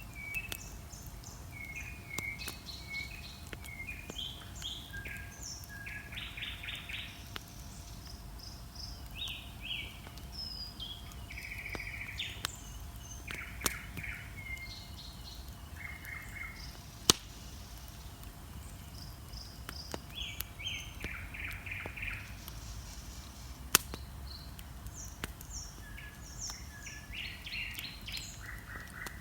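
Dawn chorus of several songbirds singing: short whistles, chirps and rapid trills overlapping throughout. A wood bonfire gives occasional sharp crackles, three of them loud pops.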